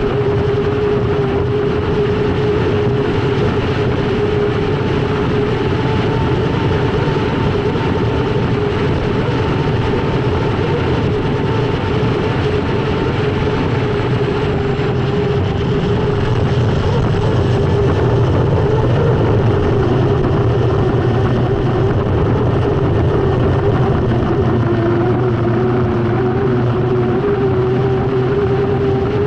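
Unlimited hydroplane's Lycoming T55 turbine engine running at racing power, heard onboard as a loud, steady whine over a dense rush. The whine dips slightly in pitch near the end, then comes back up.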